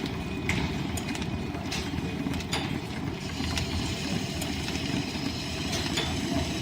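Line-shaft driven wood lathe and its overhead shafting and belts running, a steady low rumble with irregular sharp ticks.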